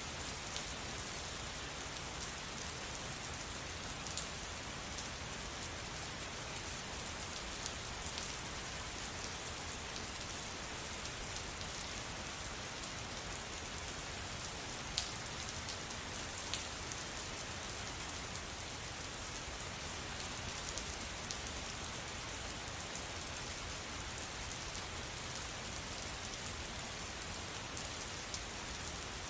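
Steady rain falling, a continuous hiss with scattered sharper drip ticks.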